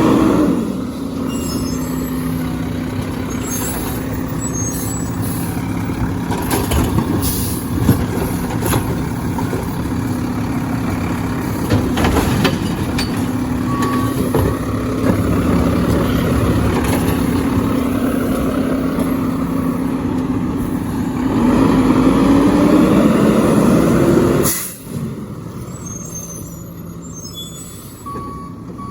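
Garbage truck's diesel engine running steadily, with a few knocks. The engine revs up about three-quarters of the way through, then a short burst of air-brake hiss sounds and the engine falls back to idle. The reversing beeper starts right at the end.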